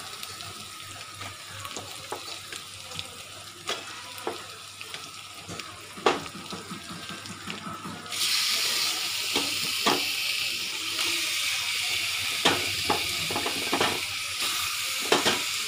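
Onion-masala paste sizzling in hot oil in a pan, with scattered knocks as raw chicken pieces go in. About eight seconds in, the sizzle jumps to a louder, steady hiss as more chicken hits the hot oil.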